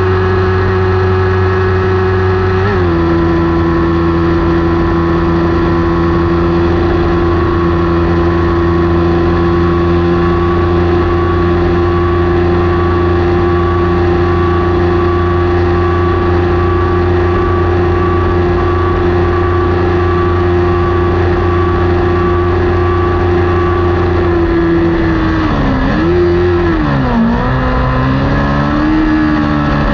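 Kawasaki Ninja 400 parallel-twin engine at full throttle, heard from on board the bike, holding a steady high pitch. The pitch steps down slightly about three seconds in, as at an upshift. Near the end the revs fall and rise twice.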